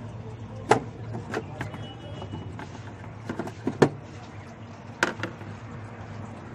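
Sharp clicks and knocks, about nine in all and irregularly spaced, as the plastic clips of a Mercedes C220 CDI's air filter housing are prised open with a screwdriver. A steady low hum runs underneath.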